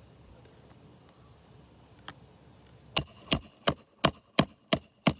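Hammer driving a nail into an asphalt roof shingle: a quick, even run of about seven ringing metal-on-metal strikes, roughly three a second, starting about three seconds in.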